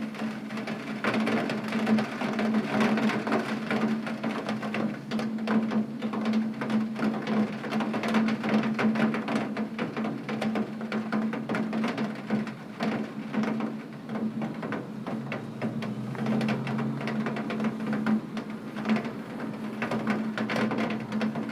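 Heavy rain drumming on window glass, a dense, irregular patter of drops over a steady wash, with a steady low hum underneath.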